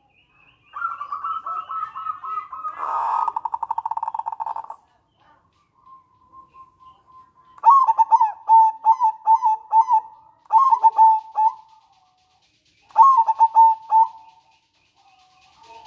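Zebra dove (perkutut) calling: a quick run of notes that turns into a buzzy rattling trill, then, about halfway through, three bouts of rapid staccato cooing.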